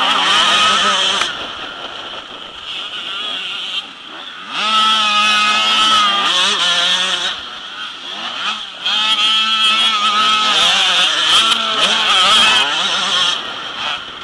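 Motocross motorcycle engines revving hard as the bikes ride, their pitch wavering up and down with the throttle. They are loud near the start, again from about four and a half to seven seconds, and again from about nine to thirteen seconds, quieter in between.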